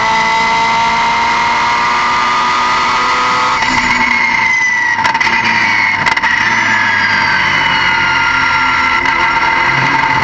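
Car engine running loudly, its pitch gliding up and down, with a sudden change in the note about three and a half seconds in.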